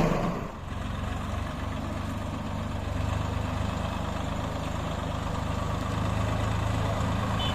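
Swaraj 744 FE tractor's diesel engine drops quieter in the first half second, then runs steadily at idle.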